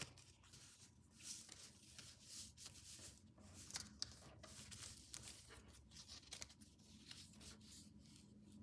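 Faint, intermittent rustling and crinkling of a sheet of paper being creased and folded by hand.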